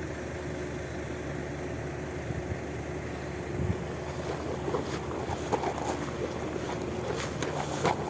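A steady low engine hum with a constant tone, under wind on the microphone; small clicks and rustling join in during the second half.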